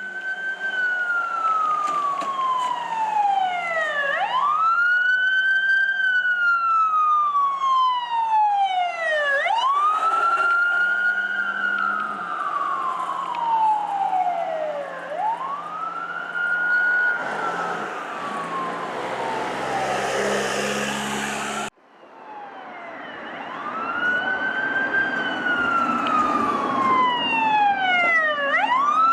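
An emergency vehicle's siren wailing, its pitch shooting up and then sliding slowly down over about five seconds, again and again, over the steady hum of a heavy engine. The sound breaks off briefly about two thirds of the way through, then the wail resumes.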